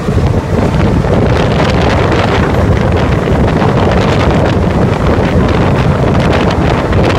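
Loud, steady rush of wind buffeting the microphone over the rumble of a passenger train running at speed, close alongside a double-stack container freight train on the adjacent track.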